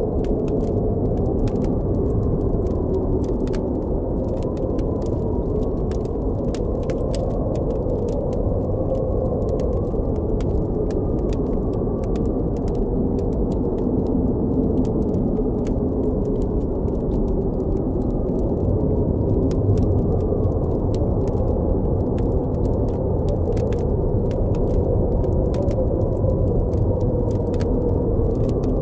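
Steady blizzard wind with a low, wavering whistle, and a campfire crackling through it with many small sharp pops.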